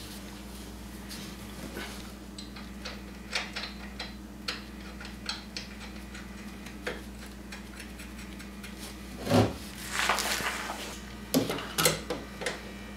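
Light metallic clinks and taps of hand tools and suspension bolt hardware being handled, scattered through, with a louder clatter about nine to ten seconds in and a few more sharp clinks near the end, over a faint steady hum.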